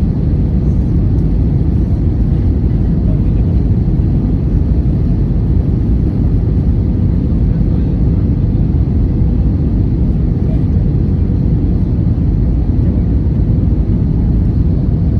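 Steady, loud low rumble inside an airliner's passenger cabin: engine and airflow noise with a faint steady hum, unchanging throughout.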